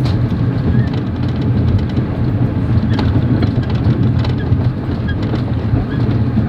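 Passenger train carriage running along the track: a steady low rumble, with two sharp knocks of the wheels about three seconds apart.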